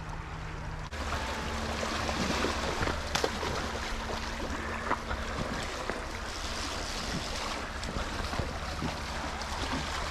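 Fast river current rushing steadily, with wind on the microphone and a faint steady low hum underneath.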